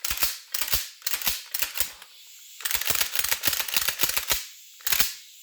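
Short blasts of compressed air blown into a Beretta A300 Outlander shotgun's action to spread a squirt of lubricant: several single puffs, then a quick run of rapid bursts in the middle and one more near the end.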